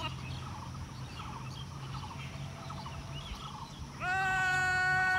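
Birds chirping over a steady low hum; about four seconds in, a loud, long held note starts abruptly and carries on unchanged.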